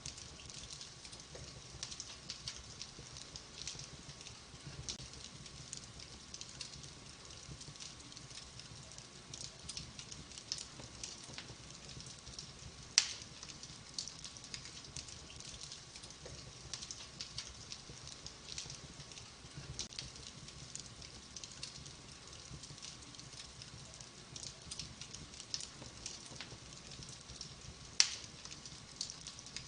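Wood fire burning in a fireplace, crackling steadily with many small pops, and two louder sharp pops, one about halfway through and one near the end.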